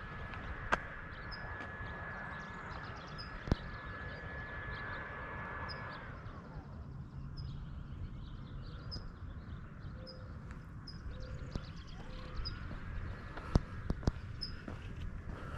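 Small birds chirping over and over, high and short, over a low steady rumble. A high steady whining tone slides down and fades about six seconds in, then slides back up near the end. A few sharp knocks stand out as the loudest sounds.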